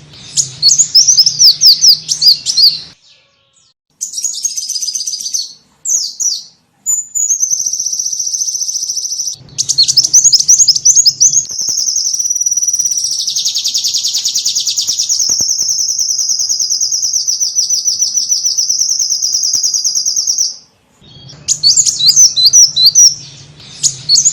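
Small songbird calls used as a bird-trapping lure: bursts of high, rapid chirps, then a long fast trill from about seven seconds in to about twenty, with sudden cut-offs into silence between sections.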